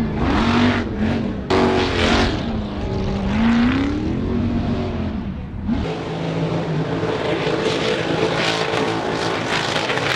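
High-powered off-road truck engine revving, its pitch rising and falling. About six seconds in it changes abruptly to a steadier, higher-pitched run with a crackling rasp.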